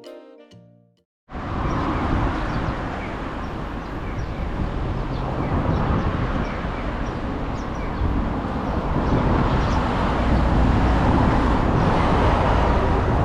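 The last notes of a tune fade out, and after a moment of silence a steady vehicle running noise starts abruptly, with a low rumble under a constant hiss.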